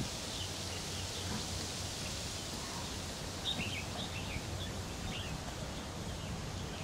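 Steady open-air background hiss with several short, high bird chirps scattered through it, most of them between about three and five seconds in.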